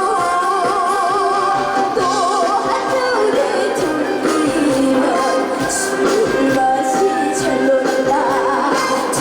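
Trot song performed live: a girl's voice sings held notes with strong, wide vibrato over backing music.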